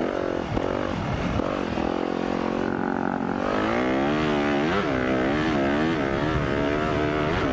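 Engine of a 2015 Yamaha YZ250F four-stroke dirt bike running under way on a trail. Its pitch holds fairly steady at first, then from about halfway rises and falls several times as the throttle is opened and closed.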